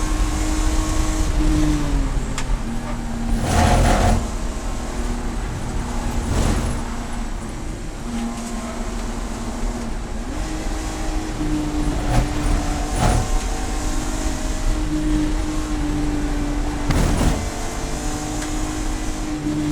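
Race car engine running at speed with road and wind rush. Its pitch drops about two seconds in and climbs back about ten seconds in. About five short, sharp knocks cut across it.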